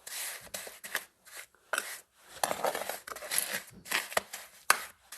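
Bricklayer's trowel spreading and scraping off wet mortar for a bed joint: a run of short, irregular scraping strokes with a few sharp clicks.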